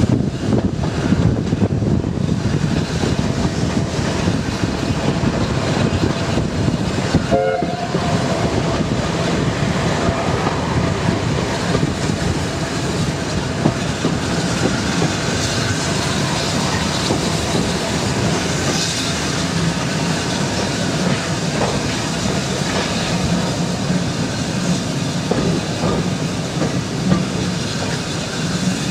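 Steam-hauled heritage passenger train heard from inside a moving coach: a steady rumble with the clickety-clack of the carriage wheels running over the rail joints.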